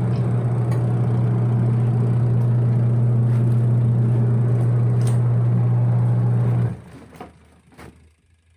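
Fujidenzo single-tub washing machine running a wash with a steady motor hum, which stops about seven seconds in, followed by a few faint clicks.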